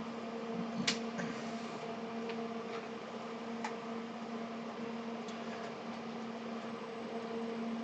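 Steady electrical hum on a workbench, with a few faint clicks of small hand tools being handled, such as wire cutters trimming solder wick.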